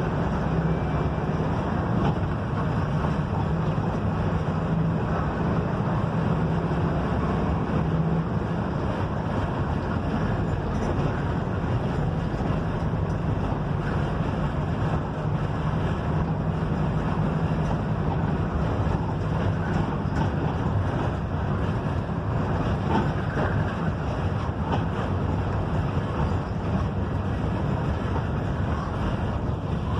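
Mercedes-Benz OF-1721 bus on the move: its front-mounted diesel engine drones steadily under heavy road and wind noise, with a slight change in the engine note about eight seconds in.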